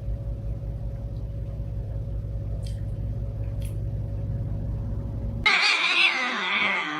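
A low, fast-pulsing rumble, then abruptly about five and a half seconds in a cat's loud, drawn-out meow, bending in pitch.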